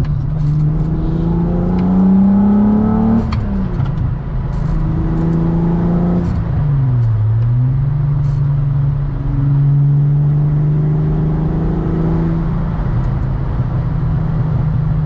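Modified 12-valve AAA VR6 engine with 268 cams and a 63 mm exhaust, pulling under acceleration. The revs climb for about three seconds, then drop sharply at a gear change. After that the engine holds steady revs, dips briefly and picks back up about halfway through, then runs steadily again.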